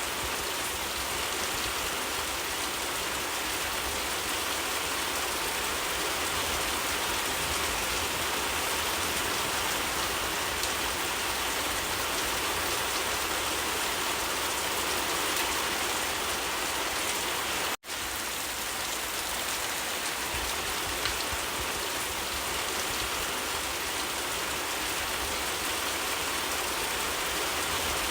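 Steady rain falling and pattering on surfaces, an even unbroken hiss. It cuts out for an instant a little under two-thirds of the way through, then carries on unchanged.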